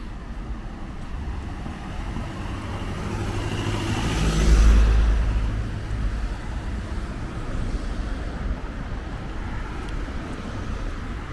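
Street traffic, with one motor vehicle passing close by: its low engine rumble swells to a peak about four and a half seconds in, then fades.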